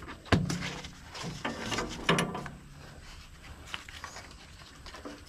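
Metal clicks and clanks of a tractor's tiller hitch part being unhooked by hand. The sounds are sharpest and most frequent in the first two seconds, followed by a few fainter clicks.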